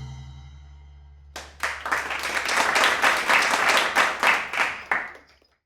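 The last marimba notes ring out and fade, then about a second and a half in an audience starts clapping. The applause cuts off suddenly near the end.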